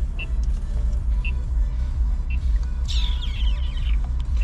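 Low, steady rumble of a BMW M340i driving, heard from inside the cabin, with a short high beep about once a second. About three seconds in, a brief cluster of falling high tones.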